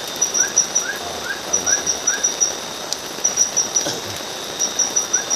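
Night forest chorus of insects: a high chirp pulsing in quick groups over a steady high trill, with a lower short rising call repeating about twice a second.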